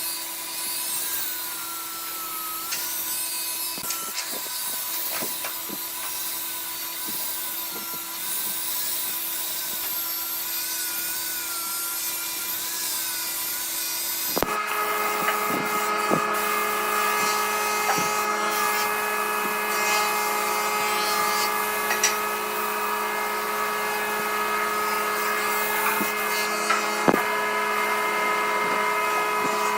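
Wood lathe running with a tool scraping the spinning wood: a steady motor whine under the rubbing of the cut, with a few light clicks. About halfway through the steady whine abruptly changes pitch to a different set of tones.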